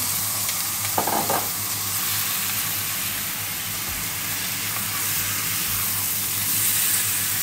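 Raw chicken thigh pieces frying in hot oil with onions in a cast-iron skillet: a steady sizzle while a spatula stirs them.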